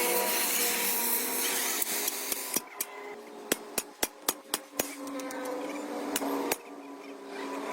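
A run of about ten sharp knocks over two and a half seconds, over a steady hum.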